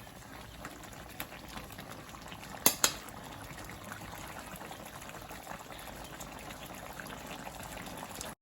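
Food bubbling steadily in a pot as it cooks, with two quick sharp clinks, like a utensil against the pot, a little under three seconds in.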